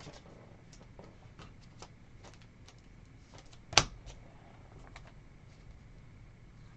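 Trading cards being handled and flipped through by hand, making scattered light clicks and taps, with one sharper snap a little before four seconds in.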